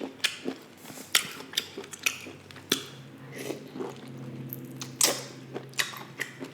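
Close-miked chewing: wet mouth clicks, smacks and crunches of someone eating, with a low steady hum lasting about two seconds in the middle.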